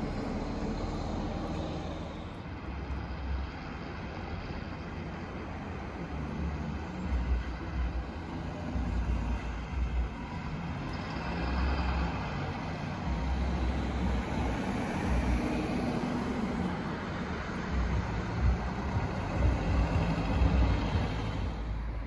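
Electric train moving through a railway station: a steady rumble with irregular low buffeting, and a faint whine that rises in pitch through the second half.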